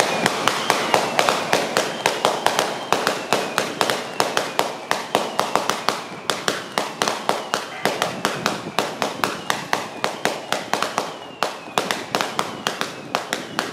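Firecrackers going off in a long, loud run of sharp bangs, several a second at an uneven pace.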